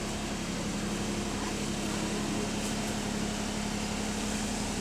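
Interior engine drone of Arriva London double-decker bus T212 idling, a steady hum with an unchanging pitch; the bus is known for a rattly idle.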